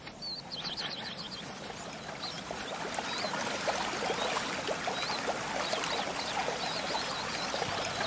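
Running water, the babbling of a stream, growing steadily louder over the first few seconds. Bird chirps sound near the start.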